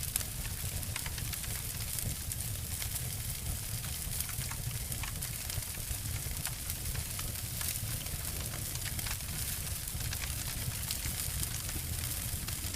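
Wood fire burning with a steady hiss and low rumble, with many small crackles and pops.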